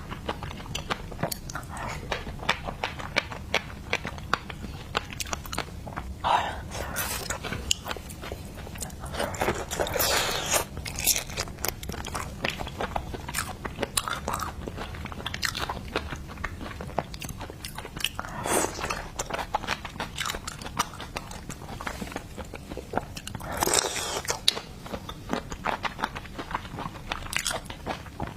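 Close-miked eating of seafood: steady biting, crunching and wet chewing with many small mouth clicks, and a few longer slurping smears now and then.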